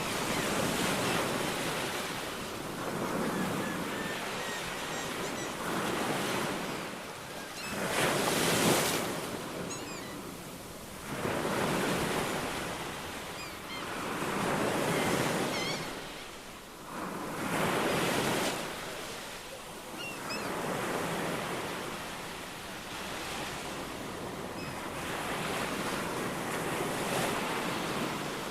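Ocean waves washing onto a shore, the surf swelling and falling back every few seconds. Faint short bird chirps are heard now and then over the surf.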